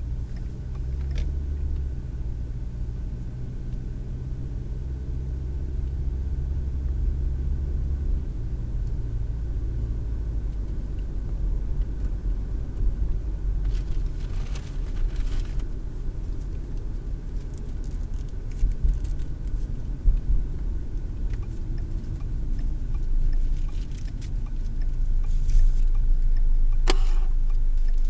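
Car driving, heard from inside the cabin: a steady low rumble of road and engine noise, with scattered small clicks and rattles and one sharper click near the end.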